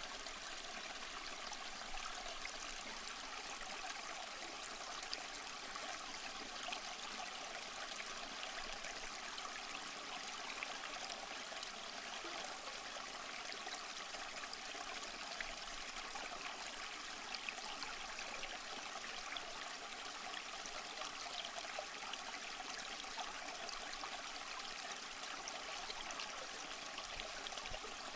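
Small stream flowing and trickling over rocks, a steady babbling with small splashes.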